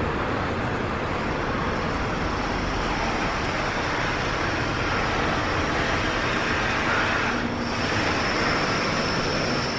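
Steady running noise of car wash machinery, with a faint high-pitched whine that comes in about a second in and grows stronger near the end.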